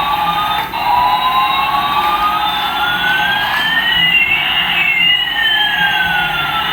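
Electronic toy sound effect: two siren-like tones sliding slowly in pitch, one rising and one falling, crossing each other past the middle, over a steady lower hum.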